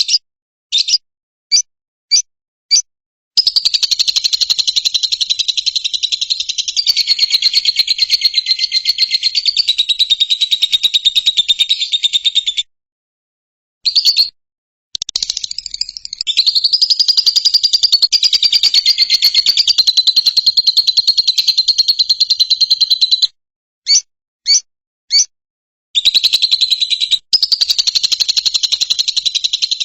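A lovebird calling: a few short sharp chirps, then long runs of rapid, unbroken high chattering trills lasting several seconds each, broken twice by brief pauses with single chirps.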